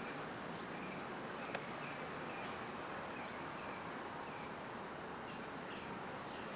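Birds chirping, short repeated calls with a few quick falling notes, over a steady background hiss. One sharp click about a second and a half in.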